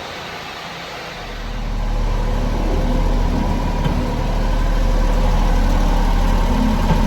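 1996 Honda Acty mini truck's small three-cylinder engine running. It grows louder about a second in, then runs steadily.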